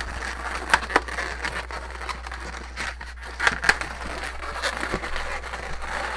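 Inflated latex balloons rubbing and squeaking against each other as they are twisted and wrapped by hand, with a few sharp snaps: two about a second in and two more halfway through.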